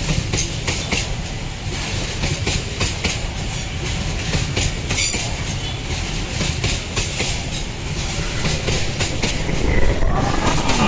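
Loaded coal train wagons rolling past, with the steady rumble of steel wheels and a clickety-clack of knocks as they cross rail joints. Near the end a rising pitched tone sweeps up over about a second.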